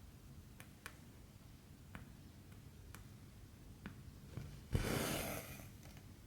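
Needle clicking through stiff cross-stitch fabric several times, with a louder rasping swish about five seconds in as the cotton thread is drawn through.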